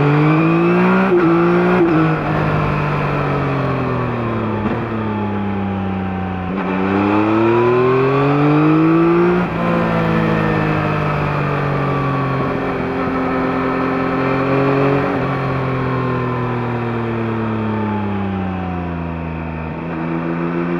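2021 Yamaha MT-09's CP3 inline three-cylinder engine through its stock exhaust, revving up under acceleration twice, with a sudden drop in pitch at an upshift about halfway through. It then rolls off and winds down slowly, settling to a steady low idle near the end.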